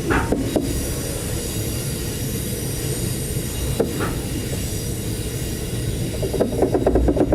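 Loco-hauled V/Line passenger train running along the track: a steady rumble and hiss of wheels on rails, with a few short wheel squeals and clicks.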